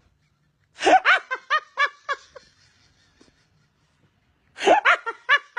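A person laughing: a quick run of short, high-pitched ha-ha pulses about a second in, then another burst of laughter near the end.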